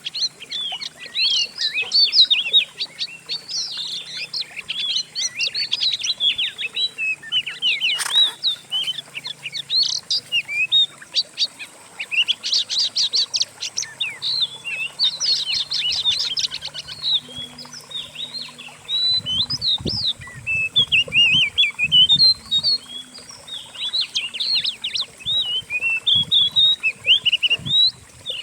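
Dense, fast songbird chirps, whistles and trills from several birds' songs mixed together: a masteran tutoring track for an oriental magpie-robin (kacer). A sharp click about eight seconds in, and low thumps about two-thirds of the way through.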